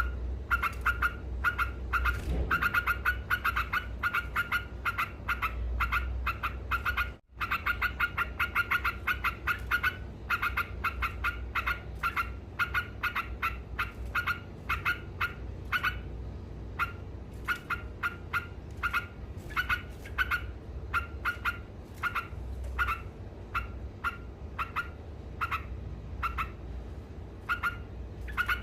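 Yellow-vented bulbul (trucuk) singing its chattering ngekek song: a fast, unbroken run of short sharp notes, several a second, cutting out for an instant about seven seconds in.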